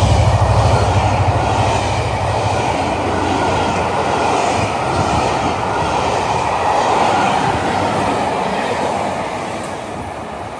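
A train passing close by: a deep engine drone that fades over the first couple of seconds, then a steady rumble of wheels on rail with a faint regular clacking, dying away near the end.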